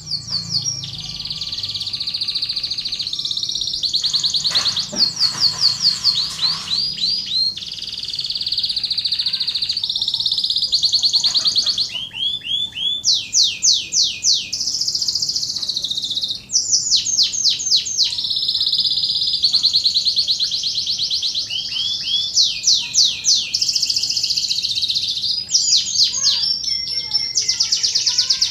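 Domestic canary singing a long, continuous song of fast trills and rapid repeated rising and falling notes, the kind of recording played to other canaries to teach them song and to get them singing.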